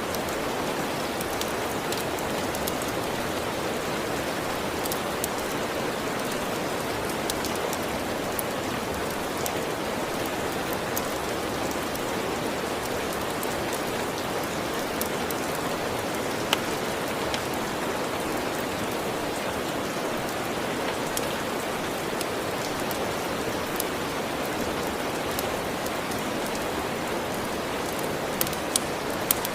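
Steady rain, an even hiss, with scattered sharp crackles from a wood fire.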